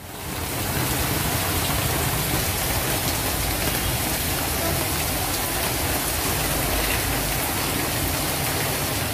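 Heavy rain pouring onto a flooded road, a steady even hiss of falling water.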